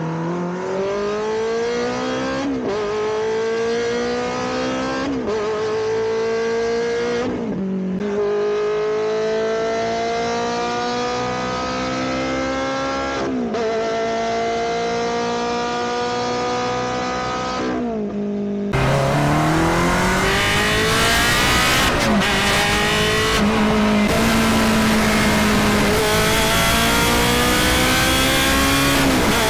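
Ferrari 360's 3.6-litre V8 with a Capristo exhaust, accelerating hard through the gears. The engine note climbs, then drops sharply at each upshift: about four shifts in the first clip. After a cut about two-thirds of the way in, a louder clip with more rushing noise runs through several more shifts.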